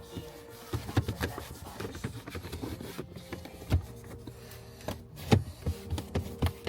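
Hands rubbing and handling things in a car interior: a cloth wiping down trim and plastic and carbon fiber pieces being picked up, with scattered knocks and clicks and two louder knocks in the second half.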